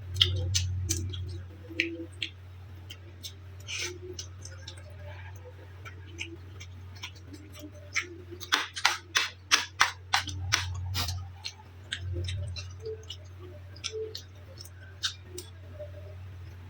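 Close-miked eating sounds: sharp mouth clicks and smacks while chewing, coming in a quick run about halfway through, over a steady low hum.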